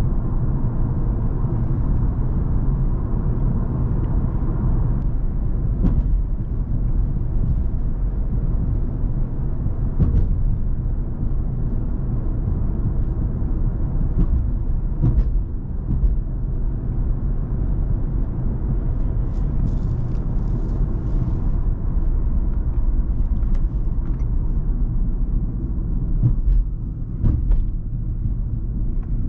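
Cadillac CTS with a twin-turbo 3.6-litre V6 being driven at a steady pace: continuous low engine and road rumble.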